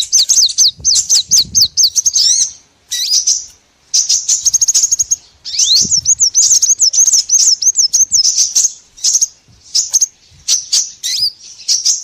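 Small songbird calling in fast runs of high, sweeping chirps, several a second, broken by a few short pauses: a bird-lure call recording.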